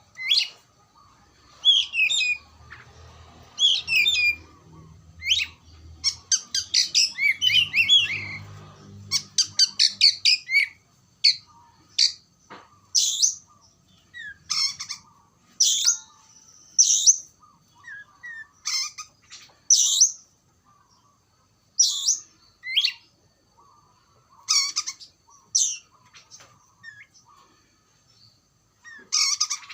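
Oriental magpie-robin (kacer) singing: loud sweeping notes, a fast run of them for a few seconds, then single notes roughly one a second.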